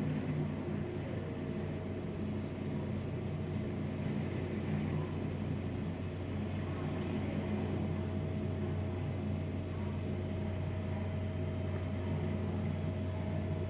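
Steady low mechanical hum of running machinery, with a faint higher whine held over it and no change in pace.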